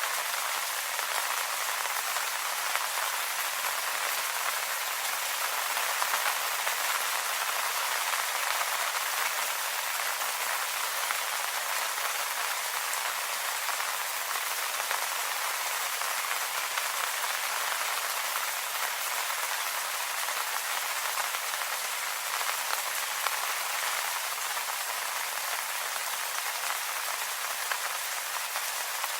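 Steady rain falling on leaves, an even patter with no breaks.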